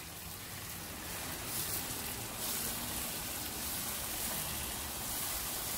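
Marinated chicken sizzling in hot oil with onion-tomato masala in an iron kadai: a steady hiss.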